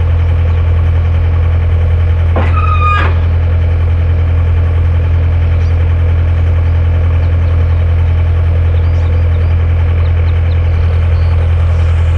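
Backhoe engine idling steadily, a loud low hum. About two and a half seconds in, a short high-pitched tone sounds briefly over it.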